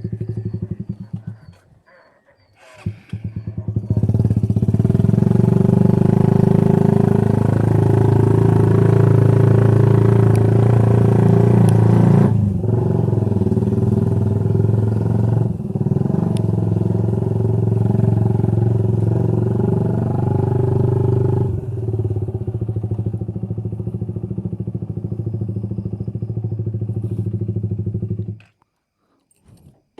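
Motorcycle with an aftermarket racing exhaust running with a deep, steady note. It stops about a second in, starts up again about four seconds in, and runs steadily with a few brief dips before cutting off near the end.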